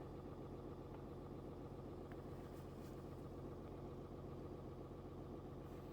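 Cummins 6.7-litre straight-six turbo-diesel of a Ram 3500 idling steadily and faintly, with no change in speed.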